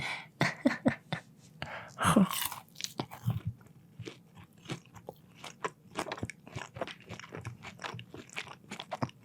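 Close-miked ASMR eating sounds: a person biting into and chewing crunchy food, with irregular wet crunches and mouth clicks throughout and a couple of short voiced mouth noises in the first few seconds.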